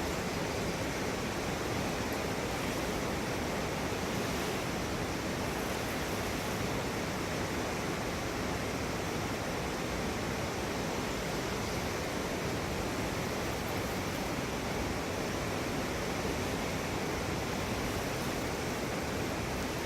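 Potomac River rapids rushing steadily: a continuous, even roar of whitewater with no breaks or separate events.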